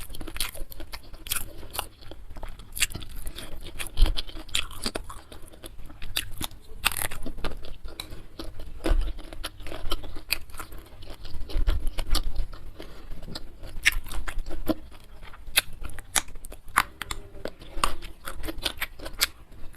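A person chewing food close to the microphone, with frequent irregular crisp crunches and wet mouth clicks.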